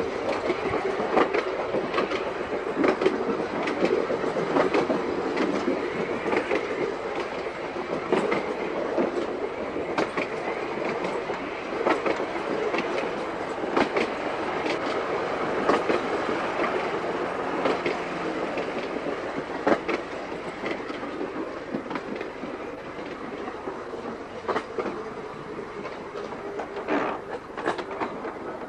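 Seaton Tramway narrow-gauge electric tram running along the line, a steady hum with irregular clicks and clacks from the wheels over the rail joints.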